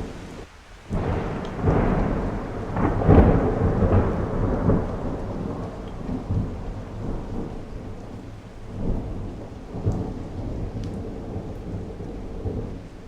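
Thunderstorm: steady rain with swells of low rumbling thunder, loudest in the first few seconds.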